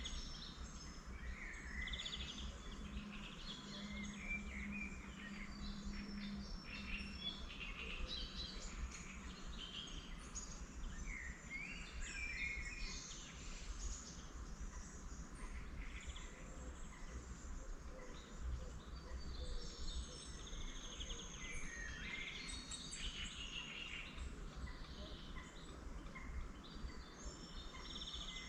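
Several wild birds singing and calling at once, a busy mix of chirps, trills and short whistled phrases, over a steady low rumble.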